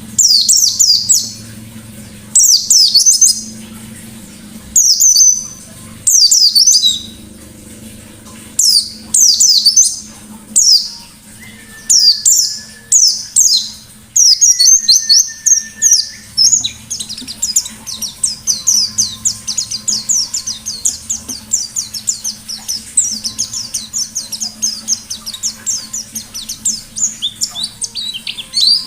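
A white-eye (pleci) singing loudly in high-pitched chattering phrases, first in short bursts about every second or two, then from about halfway in one unbroken rapid run of quick notes: the fast, forceful 'nembak' wild-style song.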